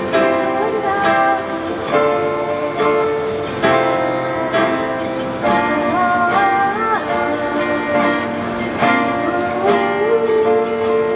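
Live acoustic pop performance: a female vocalist singing held, sliding notes over a strummed acoustic guitar.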